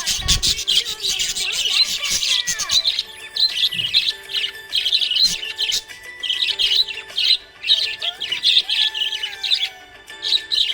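Small pet parrots chirping and twittering rapidly and continuously, over background music with held notes. A brief low thump comes right at the start.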